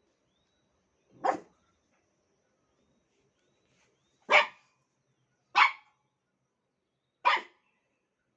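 A puppy barking four single sharp barks, spaced one to three seconds apart.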